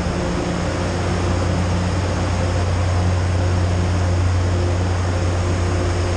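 Steady rushing wind and road noise on the microphone of a camera carried on a moving bicycle, with a strong low rumble and a faint steady hum throughout.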